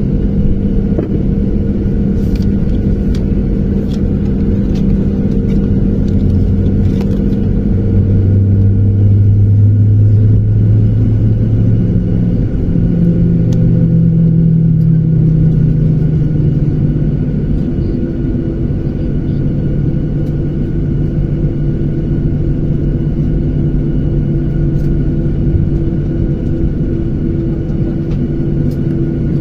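Jet airliner cabin noise: a steady, loud rumble with engine hum tones that shift pitch several times, changing engine power.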